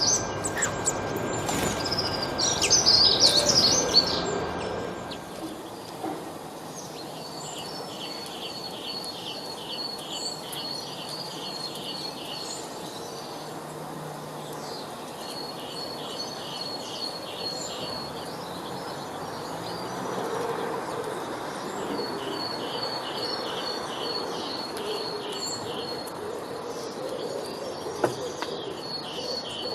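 Songbirds chirping, busy and loud for the first few seconds. Then a bird repeats a rapid series of about ten quick, evenly spaced high notes, again and again every few seconds, over a steady background hiss.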